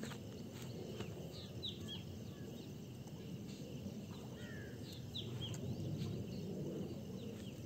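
Small birds calling in short, high chirping notes that come in little groups, over a steady low outdoor background noise.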